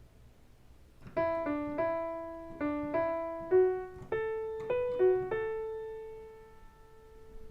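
Piano playing a simple single-note melody in the middle register, about a dozen notes, the last one held and fading away near the end. It starts after about a second of quiet.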